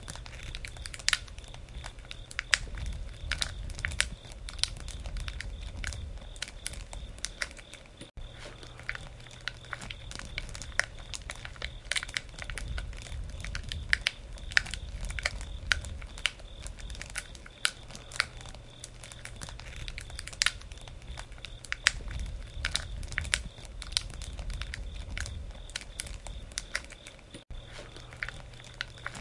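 Wood campfire burning, with frequent irregular sharp pops and crackles over a low rumble of flames.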